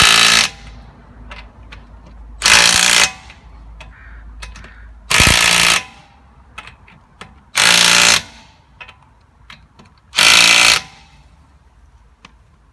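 Impact wrench hammering wheel lug nuts on in five short bursts, about two and a half seconds apart, one per nut. It is running them in only lightly, just snug.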